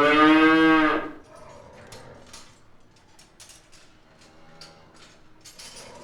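Cows in a cowshed: one loud moo in the first second, then short metallic clinks of their tether chains and a fainter low moo around five seconds in.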